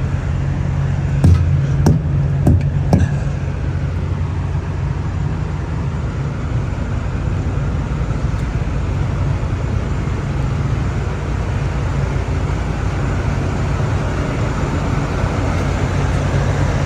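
Steady low hum of idling semi-truck diesel engines, with a few sharp clicks between about one and three seconds in.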